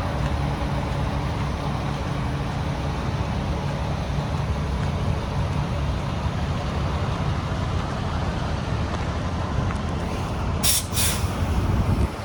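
Heavy diesel engine of a Freightliner 114SD roll-off truck running steadily at idle. Near the end come two short, sharp hisses of compressed air from the truck's air system, and the engine sound falls away at the very end.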